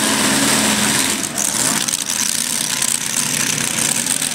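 Modified pulling tractor's engines running hard, then backing off about a second in and carrying on at lower revs as the run ends.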